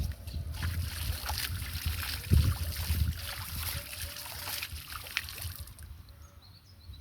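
Water splashing and sloshing in irregular bursts, loudest a little over two seconds in and dying down near the end, over a low rumble.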